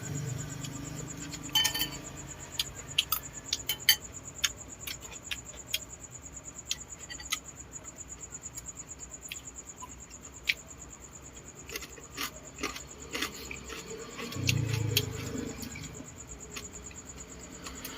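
Scattered sharp clicks and smacks of someone eating balut, over a steady, high, pulsing insect chirring. A brief low hum comes in about fourteen and a half seconds in.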